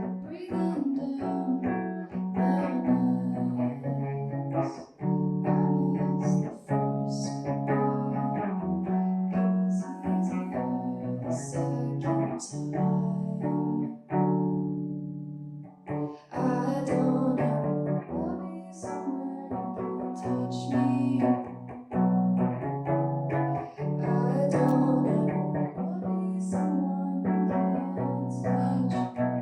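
Live song: a guitar strummed in a steady rhythm with a voice singing over it. About halfway through, a chord rings out and fades before the strumming starts again.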